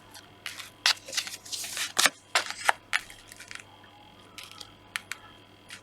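Tarot cards being shuffled and handled: a quick run of crisp snaps and rustles over the first three and a half seconds, then a few single clicks.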